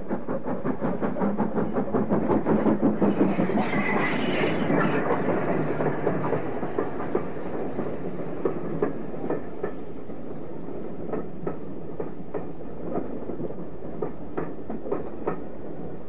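Steam-hauled passenger train passing close: a fast, rhythmic clatter that is loudest a few seconds in, then the carriages roll by with a sparse clickety-clack of wheels over rail joints that spaces out toward the end.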